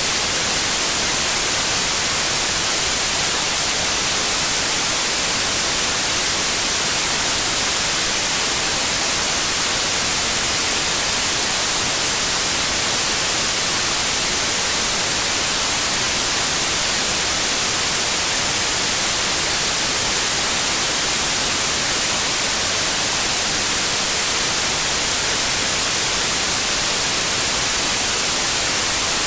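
Steady white noise: an even, unbroken hiss, strongest in the high frequencies, with no changes in level.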